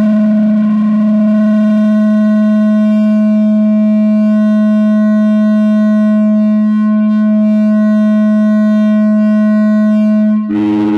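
No-input mixer feedback drone from a two-channel mixer looped through an effect pedal: one loud, steady electronic tone with a stack of overtones. Near the end it changes abruptly, with a brief dip and new lower tones entering.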